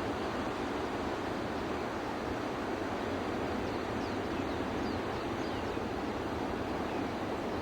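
Steady rushing of water, an even unbroken noise with a few faint, short high chirps above it.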